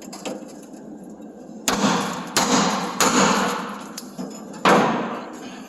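Hammer striking a steel chisel to drive out cut-off bumper bolts: four heavy metallic blows, each ringing on as it fades, with a couple of lighter taps between them.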